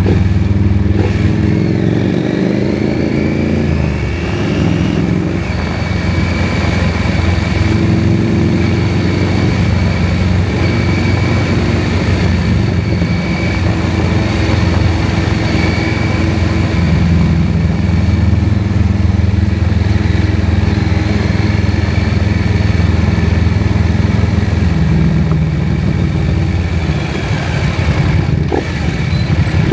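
KTM 790 Adventure's parallel-twin engine running under way, its pitch shifting up and down over the first few seconds, then holding steady as it cruises.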